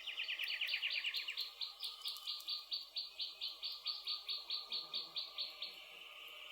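A rhythmic series of high chirps, very rapid at first and then settling to about five a second, stopping shortly before the end. Faint crackles of a campfire come through behind it.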